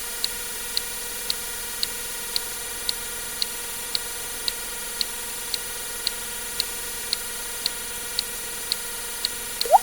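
Sharp, even ticks about twice a second over a steady hiss, with one short rising water-drop plink near the end.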